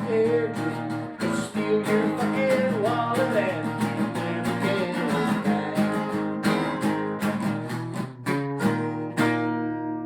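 Strummed acoustic guitar with a man singing over it for the first few seconds, then closing strums to end the song, the final chord ringing out near the end.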